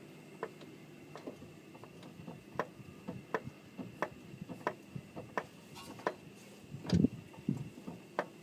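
Repeated light knocks from a car's front suspension as the steering knuckle is pushed in and out by hand, roughly one every 0.7 seconds, with a heavier thump about seven seconds in. The knock comes from the CV joint area, where the owner finds play.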